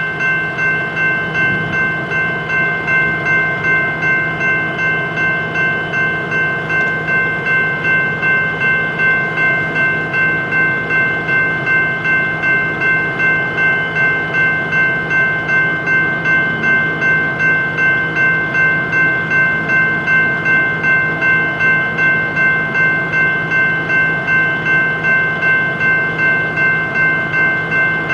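Railroad grade-crossing bell ringing steadily at about two strokes a second over the rumble of a train rolling by.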